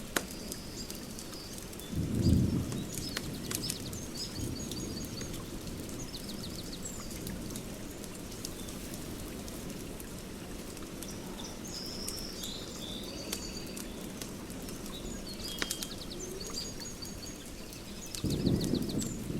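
Outdoor fire pit crackling with scattered sharp pops, while small birds chirp and trill. A low rumble swells up briefly about two seconds in and again near the end.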